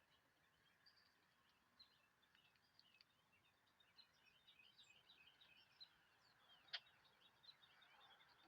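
Faint chorus of small songbirds chirping, many short calls overlapping, with one sharper, louder chirp about two thirds of the way through.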